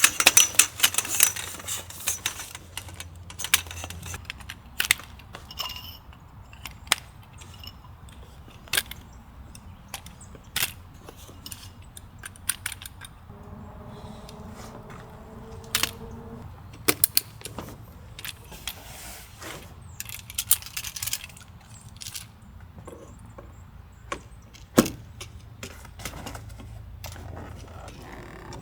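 Camping gear being handled: a run of metal jingling and clicks at the start, then scattered knocks, clicks and rustles, with a short squeak-like tone midway.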